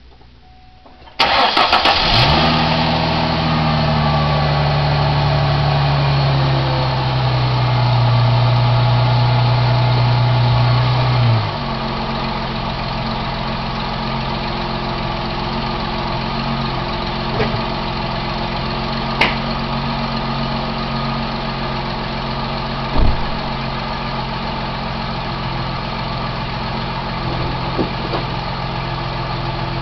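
2003 Ford Mustang's 3.8-litre V6 starting about a second in, running at a raised idle that eases down and then drops to a steady idle about ten seconds later, with a few separate knocks. The owner suspects this engine has a tick on the passenger side near the firewall, either an exhaust leak or an engine tick.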